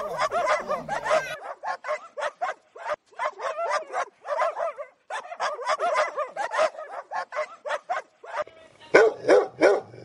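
Dogs barking in a quick, continuous run of several barks a second, growing louder about nine seconds in.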